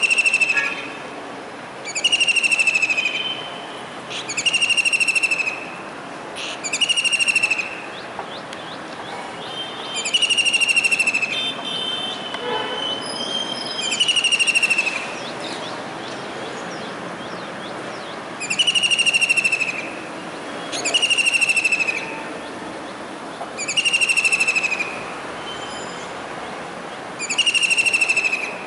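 Kingfisher calling: a loud, shrill trill about a second long, repeated about ten times at intervals of two to four seconds.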